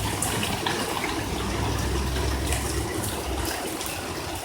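Heavy hail pelting down, a dense clatter of many small impacts over a rushing noise of falling ice and water. A low rumble runs underneath and fades away about three and a half seconds in.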